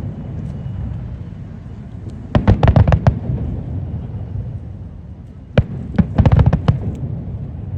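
Aerial fireworks bursting: two quick volleys of sharp bangs, about two and a half seconds in and again near six seconds, over a steady low rumble from the display.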